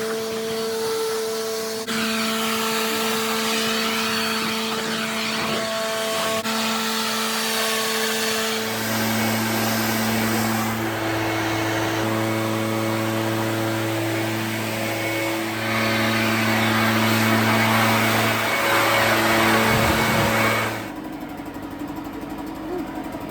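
A motor-driven machine running steadily: a whining hum over a rushing hiss. The hum shifts to a lower pitch about nine seconds in, and the sound drops off abruptly near the end.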